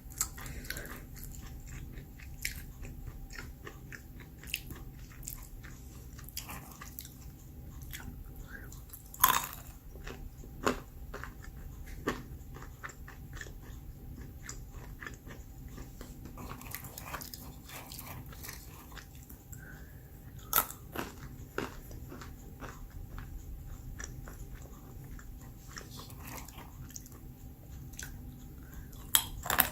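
Crunchy roasted almonds being bitten and chewed close to the microphone: irregular sharp crunches throughout, the loudest about nine and twenty seconds in.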